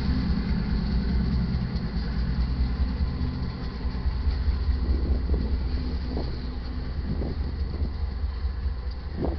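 Loaded coal train rolling past: a steady low rumble of heavy coal cars' wheels on the rails. From about halfway through, irregular clanks and rattles come through over the rumble.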